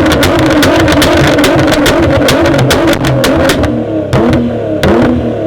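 Tuned car engine revving hard, its exhaust popping and crackling rapidly for about three and a half seconds. The revs then fall away, with a few separate loud bangs from the exhaust.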